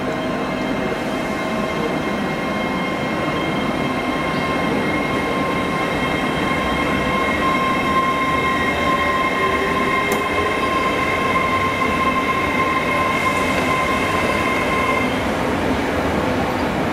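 Great Western Railway Intercity Express Train rolling slowly along the station tracks, its running noise overlaid by a steady, high-pitched wheel squeal of several held tones that dies away near the end.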